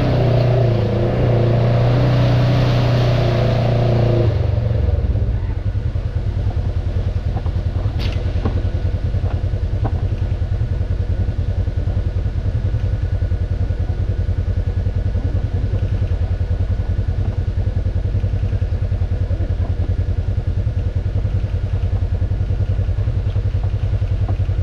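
Off-road vehicle's engine working hard for about the first four seconds, then dropping to a low, steady engine speed that runs on evenly. One sharp click about eight seconds in.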